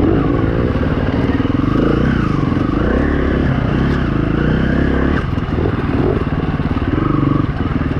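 2016 KTM 350 EXC-F's single-cylinder four-stroke engine running under a rider's throttle, its revs rising and falling again and again.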